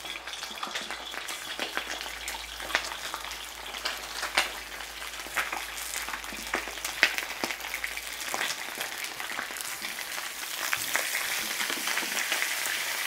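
Already-cooked chicken pieces browning in hot oil on a comal: a steady sizzle with frequent sharp pops and crackles, growing a little stronger near the end.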